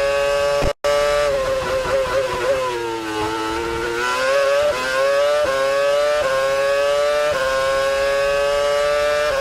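V8 Formula 1 car engine running at high revs. Its pitch sags about three seconds in as it slows, then climbs back, stepping with quick gear changes. The sound cuts out to silence for a moment just under a second in.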